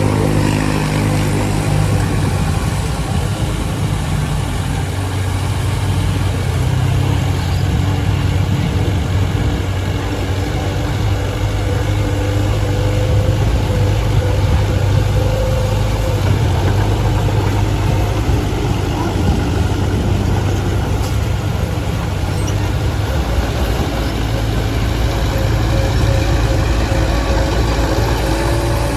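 Heavy diesel engine of earthmoving machinery running steadily at an even speed, a constant low drone.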